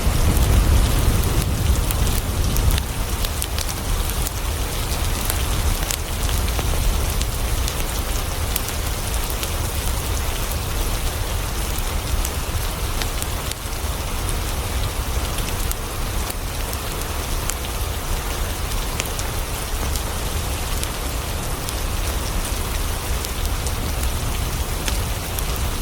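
Steady rain falling on a surface, a continuous hiss with many small drop ticks over a deep low rumble.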